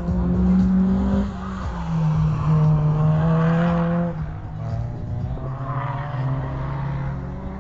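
Race car engine running hard at high revs as the car laps the circuit. The engine note dips about a second in and again about four seconds in, as the driver lifts or shifts, then climbs again.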